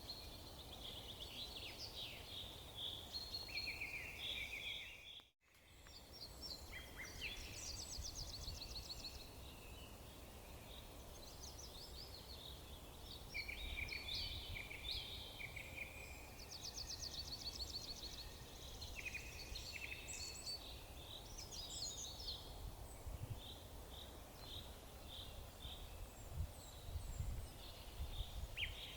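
Several songbirds chirping and trilling, with overlapping quick repeated notes, over a steady low background rumble. The sound cuts out briefly about five seconds in and fades back in.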